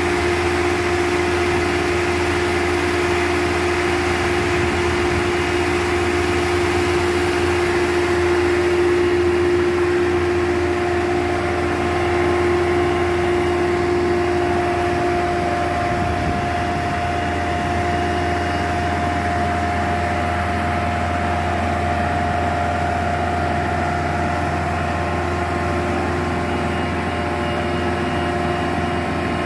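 An engine running steadily, with a steady whine on top whose pitch shifts upward about halfway through.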